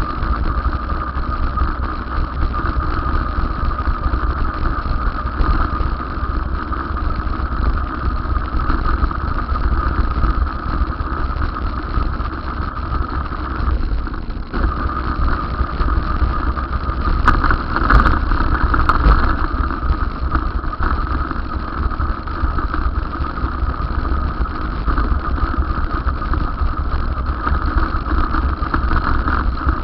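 Steady running noise of a moving vehicle: a deep, constant rumble with a steady whine over it, and a few sharp clicks a little past halfway.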